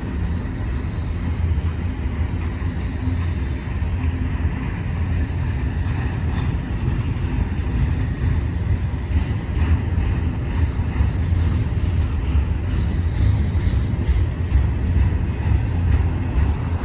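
BNSF double-stack intermodal container train rolling past at steady speed, a continuous low rumbling hum. From about the middle onward, short sharp clicks and ticks from the passing cars come more and more often.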